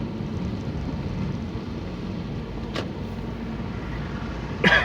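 Car driving along, a steady engine and road rumble heard from inside the cabin, with a brief sharp, pitched sound near the end.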